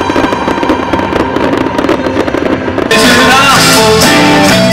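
A firework display crackling and popping over music. About three seconds in, the sound switches abruptly to a live rock band playing with guitars, drums and a lead singer.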